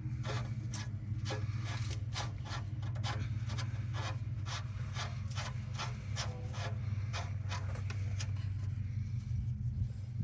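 Oil drain plug being screwed back into a truck's oil pan until it is tight: a run of short rasping strokes, about two to three a second, that stop near the end. A steady low hum runs underneath.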